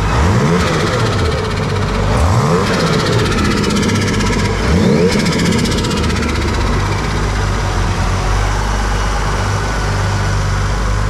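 Toyota JZA70 Supra 2.5GT Twin Turbo's 2.5-litre turbocharged inline-six, fitted with a replacement Garrett turbocharger, revved about three times in the first five seconds, then settling to a steady idle.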